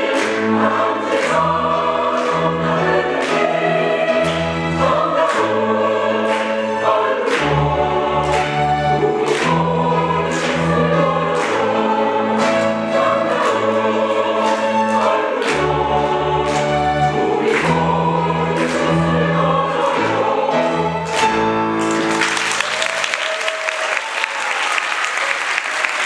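Choir singing in harmony over instrumental accompaniment with a steady beat and a stepping bass line. The singing ends on a final chord about 22 seconds in, and the audience breaks into applause.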